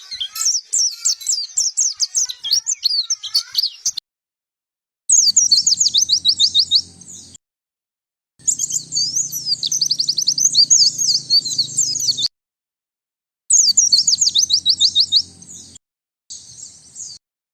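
White-eye (pleci) song: rapid high chirps and fast twittering trills in bursts of a few seconds. Each burst cuts off abruptly into about a second of dead silence before the next starts.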